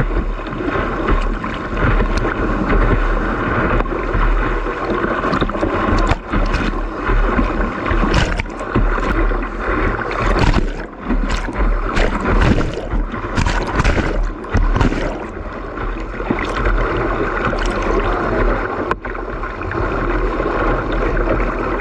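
Whitewater rapids rushing and splashing against a boat, with repeated bursts of spray and a low rumble of wind on the action-camera microphone.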